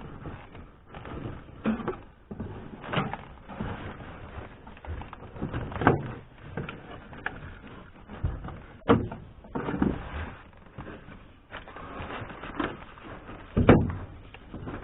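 Irregular knocks, clicks and scraping from hand work on a car's interior roof trim, with sharper knocks about 3, 6, 9 and 13 seconds in.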